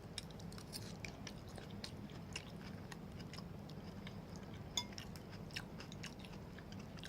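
Close-up chewing and mouth sounds of a person eating a macaroni casserole: irregular small wet clicks, over a steady low hum.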